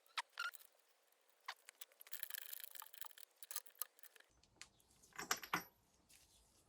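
Faint clicks, taps and a short scratchy rattle of hand tools and small metal parts being handled, as a part is refitted to a 200cc motorcycle. The loudest cluster of clicks comes a little after five seconds.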